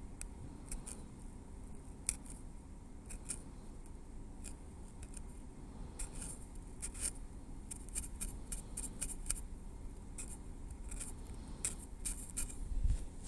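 Metal tweezers working close to the microphone: light, irregular metallic clicks and ticks of the tips, some in quick clusters. A soft low bump comes near the end.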